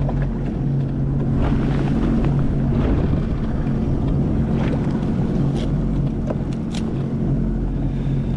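Sea-Doo FishPro Sport jet ski's engine idling with a steady low hum, under wind on the microphone, with a few sharp clicks and knocks.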